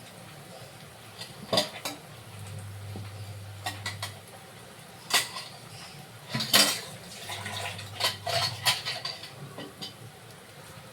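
Metal utensils clinking and scraping against a cooking pot, a string of sharp, irregular clatters that come thicker in the second half, over a low hum.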